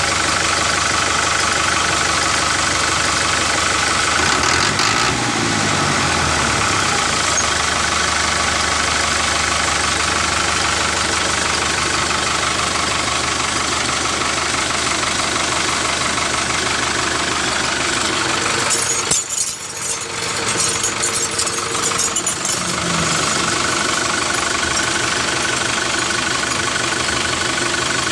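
Small electric motor of a homemade model tractor running steadily with a buzzing hum. About two-thirds of the way through it turns rough and crackly for a few seconds, then settles back to its steady run.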